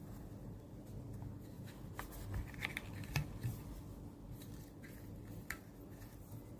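Handling noise: a scattered handful of light clicks and taps, the sharpest about three seconds in, over a steady low hum.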